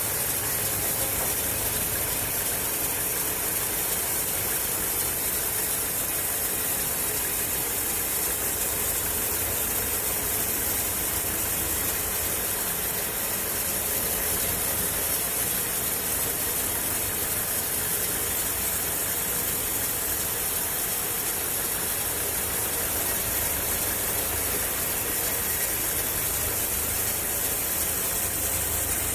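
Sawmill engine and saw running steadily: a continuous mechanical hum under a strong, even hiss.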